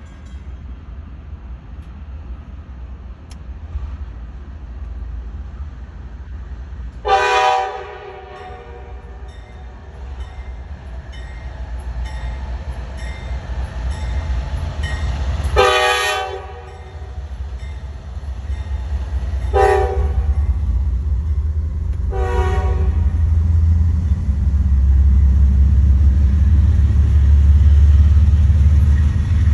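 Train horn sounding four blasts, two longer ones followed by two short ones, over the low rumble of a train that grows steadily louder as it approaches.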